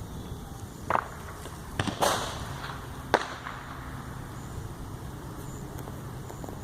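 Four sharp cracks or knocks over a steady low hum: the first about a second in, a close pair near two seconds with a brief hissing burst after them, and a last crack about a second later.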